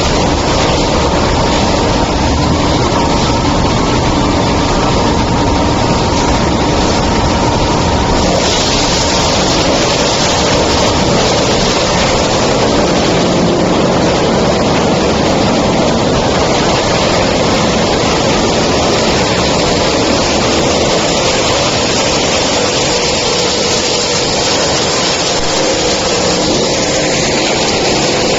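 Wood chipper running loudly and steadily, a dense mechanical noise with no pauses. A thin steady tone sounds over it for about the first eight seconds, then fades out.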